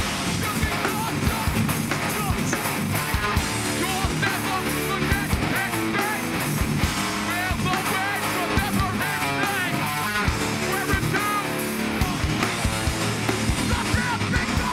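A hardcore punk band playing live and loud: distorted electric guitars over hard-hit drums.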